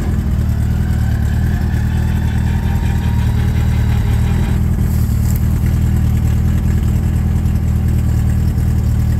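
Kit car engine idling steadily. Over it, a fainter electric whine runs for about four seconds as the canopy lifts, then stops abruptly.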